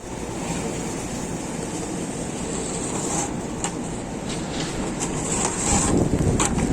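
Outdoor city ambience: a steady low rumble with wind on the microphone, and several brief hissing sounds in the second half.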